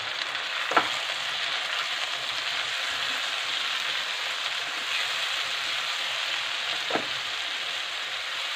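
Chopped tomatoes and onions sizzling steadily in hot oil in a kadhai while a spatula stirs them, with two short clicks of the spatula against the pan, about a second in and near the end.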